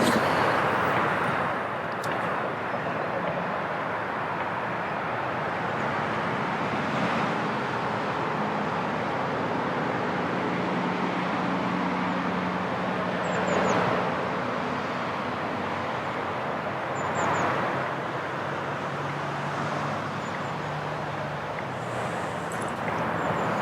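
Steady outdoor rumble of distant road traffic, with a low engine hum that comes and goes and a few brief swells. Two small pairs of high ticks come about halfway through and again a few seconds later.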